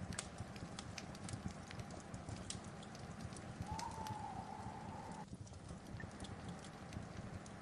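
Wood fire burning, with irregular sharp crackles and pops over a steady low rumble of the flames. A faint high whistle comes in briefly about four seconds in.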